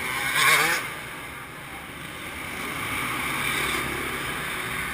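Motocross bikes running in an indoor riding hall, heard as a steady engine drone that swells a little past halfway. A faint voice is heard at the start.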